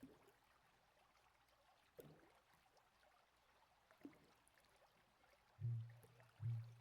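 Faint flowing river water with a soft splash about every two seconds. Near the end come two short, low, steady held notes from a taonga pūoro (traditional Māori) wind instrument.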